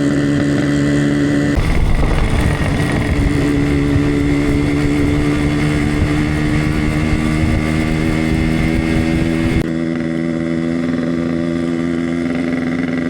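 Yamaha RX King's single-cylinder two-stroke engine running steadily while the motorcycle is ridden. The sound changes abruptly about one and a half seconds in, turning rougher with a low rumble, and again near ten seconds in, back to a smoother, steady tone.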